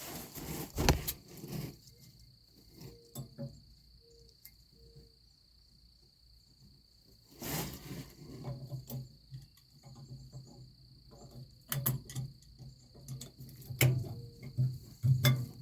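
Scattered clicks and light metal knocks of hand tools and parts being handled on a semi-trailer's S-cam brake assembly, busier in the second half, over a steady high tone.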